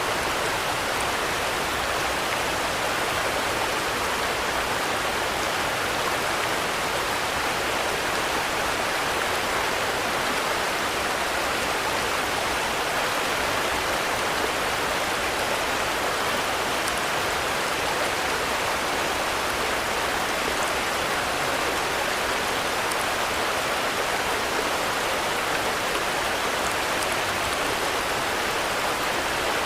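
Steady rain falling, an even, unbroken hiss at a constant level, with a few faint ticks of single drops.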